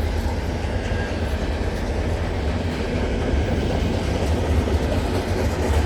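Container cars of a long freight train rolling past close by: a steady, low rumble of steel wheels on the rails.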